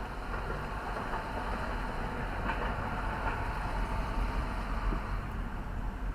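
Steady rumble and road noise of a moving vehicle, with no distinct events.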